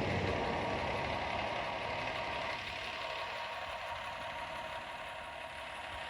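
Motor vehicle engine running, slowly fading.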